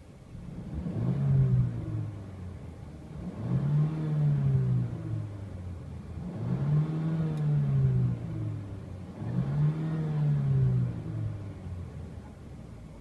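The 2014 Mercedes CLA 250's 2.0-litre turbocharged four-cylinder engine revved four times while parked, each blip rising and falling back to idle, about three seconds apart.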